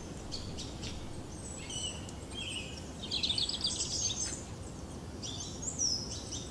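Birds chirping and twittering in short high calls and gliding whistles, with a busier run of rapid trills about three seconds in, over a steady low background noise.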